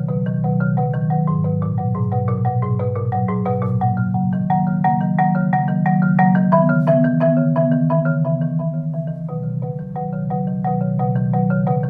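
Solo marimba playing a fast, even stream of notes over continuous low bass notes.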